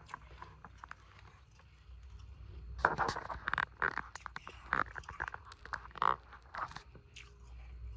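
Frozen ice being bitten and crunched close to the microphone. It is fairly quiet at first, then from about three seconds in comes a run of crisp crunches and crackles.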